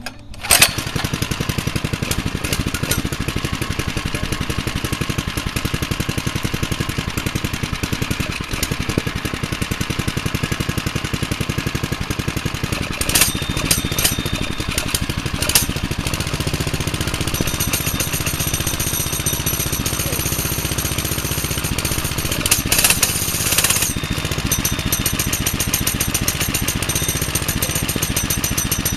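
Brand-new BAJA 97 cc (2.8 hp) minibike engine starting on full choke about half a second in, then running steadily. The engine's note changes about 17 seconds in, and a few short knocks stand out above it.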